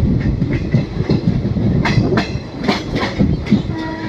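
Passenger train running, heard from an open coach door: a steady low rumble with wind, and several sharp clacks of the wheels over the track from about two seconds in.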